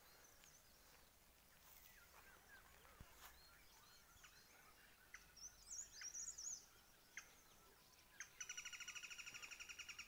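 Wild birds calling in the morning: faint scattered chirps, a brief high warble about halfway through, then a loud, fast, evenly repeated trill from about eight and a half seconds in.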